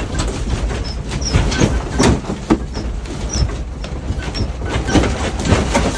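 Earthquake tremor footage: a steady low rumble with dense, continuous rattling and clattering of shaken objects, and faint high squeaks now and then.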